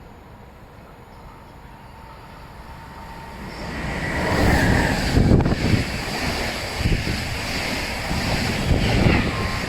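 A train passing through the station at speed: a rushing roar that swells about four seconds in and stays loud, with gusts of wind buffeting the microphone.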